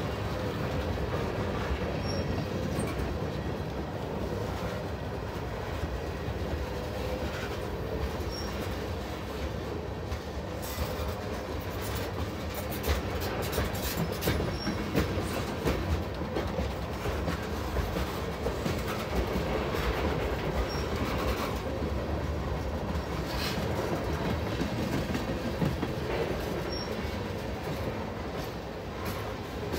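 Freight train of refrigerated boxcars rolling past close by: a steady rumble of steel wheels on the rails, with sharp clacks and clicks that come thicker and louder from about a third of the way in.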